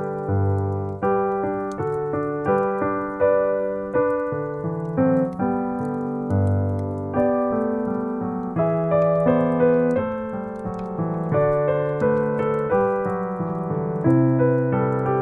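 Solo piano music: a gentle melody over sustained chords, each note struck and then fading.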